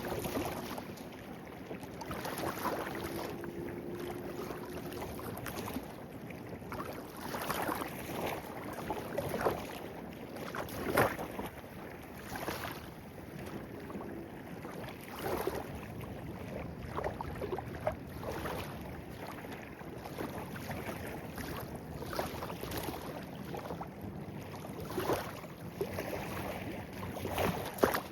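A small stream babbling steadily over its bed, with irregular gurgles and splashes throughout.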